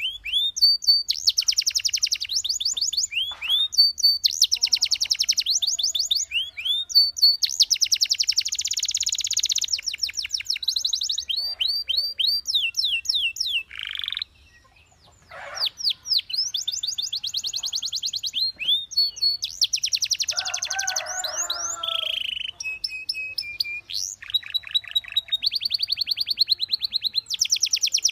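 Domestic canary singing: long, rapid trills alternating with short repeated whistled notes, with a brief pause about halfway through.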